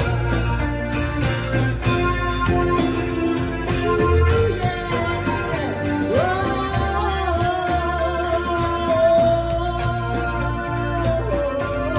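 A band playing a song with drums, bass and a singing voice, the melody held on one long note through the second half.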